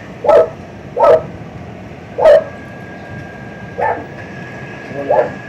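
A pet animal giving five short, loud calls, a second or so apart. A faint steady high whine sets in about halfway through.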